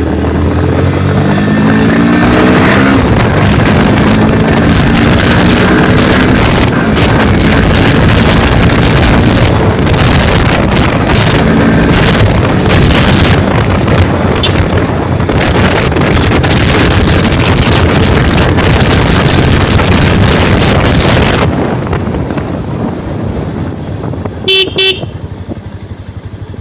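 Motorcycle on the move: the engine revs rise and fall at the start, then a loud, steady rush of engine and road noise that drops off about 21 seconds in. Near the end a vehicle horn gives two short toots.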